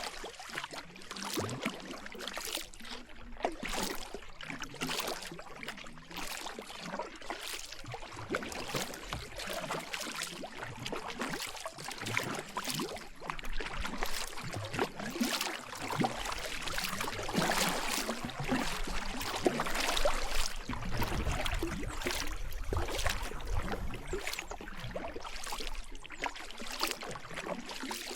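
Kayak paddle blades dipping and pulling through river water, a regular rhythm of splashes from steady forward strokes.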